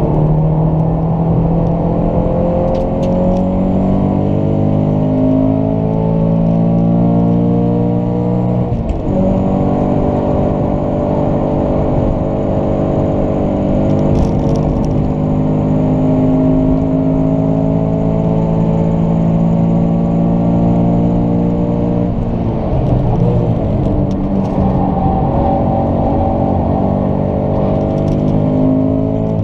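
Toyota GT86's 2.0-litre flat-four engine heard from inside the cabin on track, revs climbing steadily under acceleration, dropping sharply at a quick upshift about nine seconds in, then a long climbing pull. Around twenty-two seconds the revs fall and the note breaks up as the car slows, before it accelerates again near the end.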